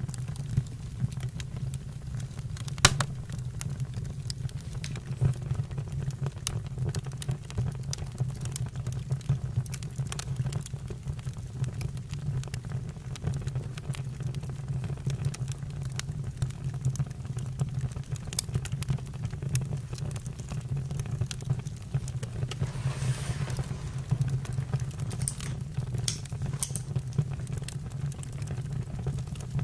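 Campfire crackling and popping over a steady low rumble of flames, with one sharper pop about three seconds in and a brief hiss later on.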